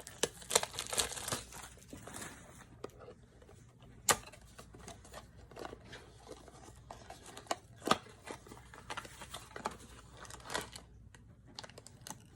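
Funko mystery-mini packaging being torn and crinkled in short, irregular bursts, with a few sharp snaps.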